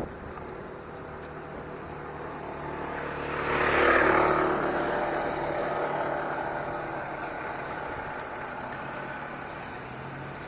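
A motor vehicle driving past: its engine and road noise grow louder to a peak about four seconds in, then fade away.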